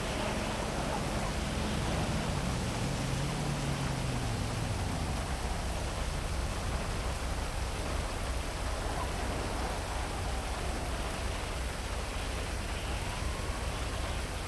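Heavy rain falling in a steady hiss over city traffic. A low vehicle engine hum drops in pitch and fades away over the first five seconds, and a faint rising siren tone starts near the end.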